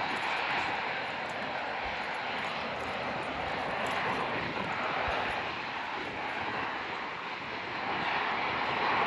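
Jet airliner engines running: a steady rushing noise that swells and eases slightly.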